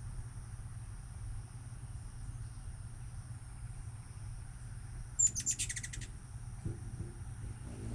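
A hummingbird's high-pitched chattering call: a quick burst of about eight rapid notes lasting under a second, a little past the middle, over a steady low background rumble.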